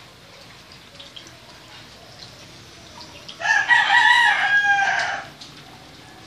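A single loud, drawn-out animal call lasting about two seconds, starting a little past the middle.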